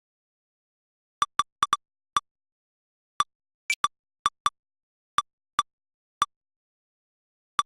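Short identical electronic clicks at irregular intervals, about fourteen, with silence between: the detector playback's alert sound for each lightning strike replayed from the storm detector's saved history.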